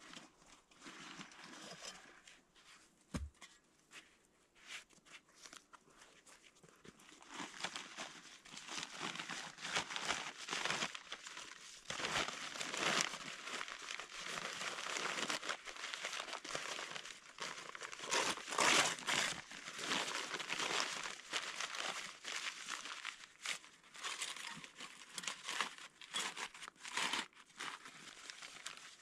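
Irregular rustling, crinkling and crunching from materials being handled, thickening after the first several seconds, with one dull knock about three seconds in.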